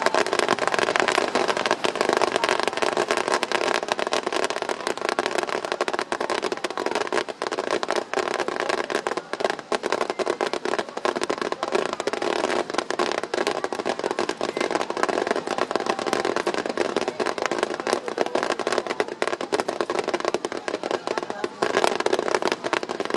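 Fireworks barrage, many shells and ground effects firing and bursting in rapid succession, a dense continuous crackle of bangs.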